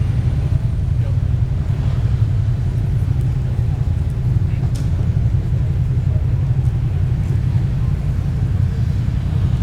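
A steady low rumble with no distinct pitch or rhythm.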